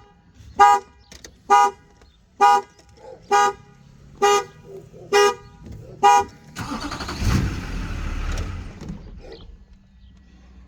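A vehicle horn sounds seven short, identical honks about once a second, the pattern of a tripped car alarm. They stop after about six seconds and are followed by a couple of seconds of rustling, rumbling noise.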